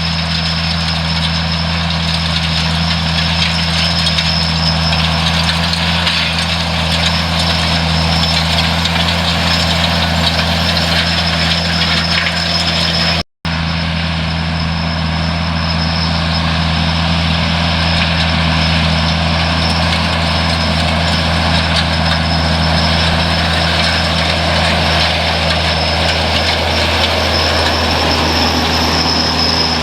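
An engine runs steadily at constant speed, a continuous low drone with hiss over it. The sound drops out for an instant about 13 seconds in, then carries on unchanged.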